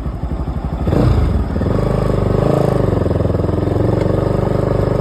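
Bajaj Pulsar NS200's single-cylinder four-stroke engine under way at low revs, then the throttle opens about a second in and the engine pitch climbs and holds steady as the bike accelerates.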